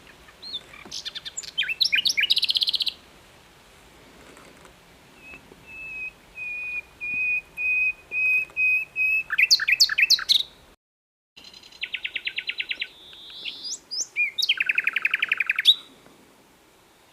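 Common nightingale singing in separate phrases: quick chirping notes, then a slow run of repeated whistled notes on one pitch that grows louder, followed by fast rattling trills. The sound drops out completely for about half a second in the middle.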